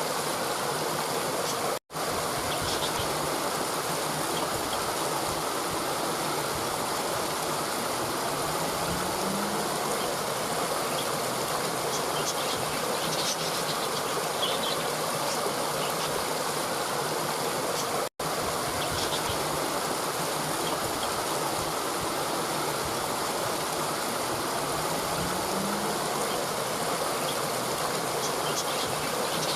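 Steady rushing of flowing water, with faint high chirps scattered over it. The sound cuts out for an instant twice, about sixteen seconds apart, and a low rising sound recurs on the same spacing, so a short recording is being looped.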